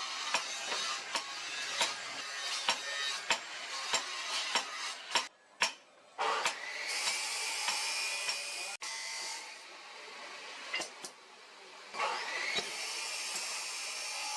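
Workshop tool noise on the machete: a steady rasping hiss with frequent sharp clicks and knocks, which stops briefly about five seconds in and then resumes.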